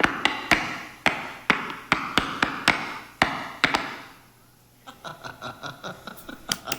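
Tap shoes striking a stage floor in a tap dance: sharp single taps with a ringing decay, about two a second and unevenly spaced. After a pause of about a second comes a quick run of lighter, faster taps.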